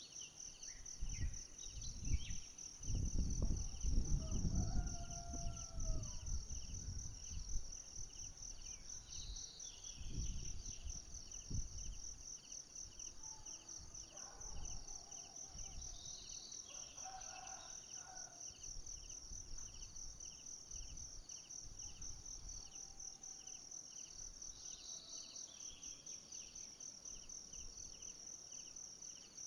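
Insects trilling without pause, a high, rapidly pulsing trill over a slower, lower pulsing chirp. Low bumps and rumbles stand out in the first several seconds, and a few brief calls come and go.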